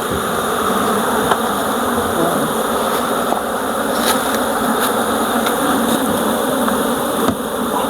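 Honeybee colony buzzing loudly and steadily as the hive is opened, a dense, even hum with a few faint clicks.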